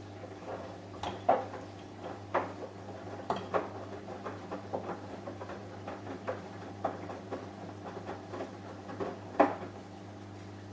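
Samsung Eco Bubble washing machine running with a steady low hum, and irregular knocks and clinks during the wash. Two knocks, one early and one near the end, are louder than the rest.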